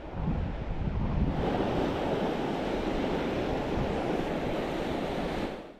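Sea surf rushing on the shore with wind buffeting the microphone, swelling louder about a second in and then cutting off abruptly near the end.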